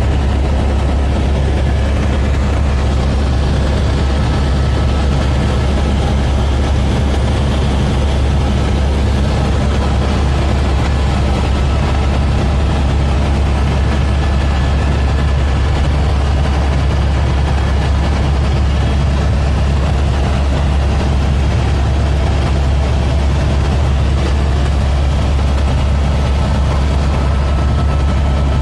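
Helicopter rotor and engine running with a steady, loud low drone.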